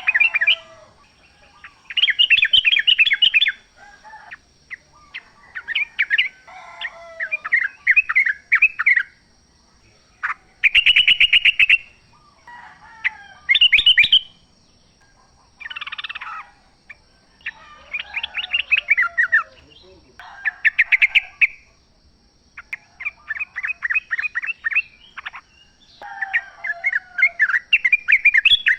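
Yellow-vented bulbuls (trucukan) singing in the wild: short phrases of rapid, bubbling chattering notes, one after another with brief pauses between them.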